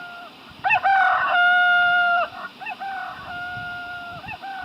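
Rooster crowing several times in a row, the calls overlapping. The loudest and longest crow is a held note starting about a second in.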